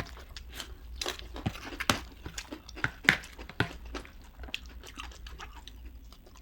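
Close-up chewing and crunching of chatpate, a spicy puffed-rice snack. It comes as irregular crisp crunches and mouth clicks, with a few louder crunches about one, two and three seconds in.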